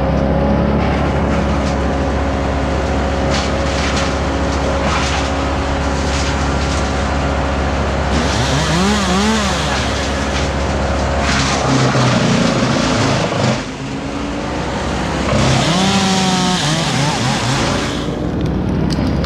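Gas engines of tree-removal machinery running steadily, with an engine revving up and back down twice, about eight seconds in and again about fifteen seconds in, with a hissing whine while it revs.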